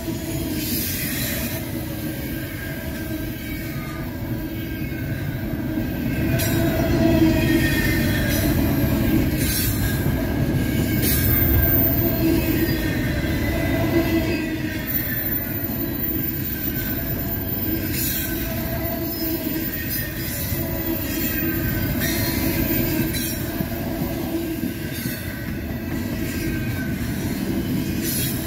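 Double-stack intermodal well cars rolling past: a steady rumble of steel wheels on rail, with a faint wavering wheel squeal and occasional short knocks.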